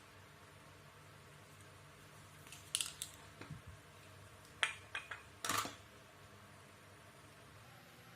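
A handful of light, sharp clicks and taps of small hard parts being handled, bunched together in the middle, over a faint steady hum.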